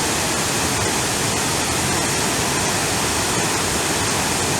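A large waterfall thundering at close range: a steady, loud, even roar of plunging water and spray.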